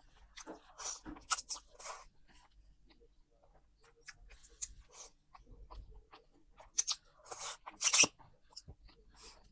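Close-miked eating sounds: chewing and wet mouth smacks in short clusters, one in the first two seconds and a louder one around seven to eight seconds in.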